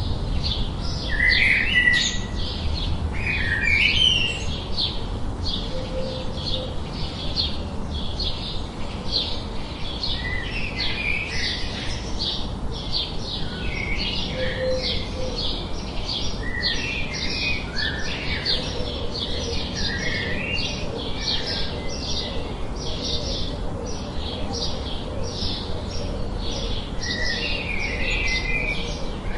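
Small birds chirping: a steady run of short, high chirps, about two or three a second, with lower, rougher chirps scattered among them.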